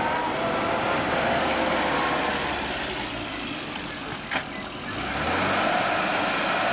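Classic Mini's A-series engine running as the car manoeuvres, its pitch rising and falling. It eases off in the middle with a single sharp click, then picks up again.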